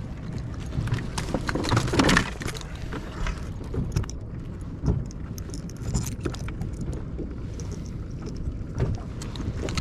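Rattling and clicking of fishing tackle being handled as hooks are worked out of two tautog on one rig, over a steady low rumble.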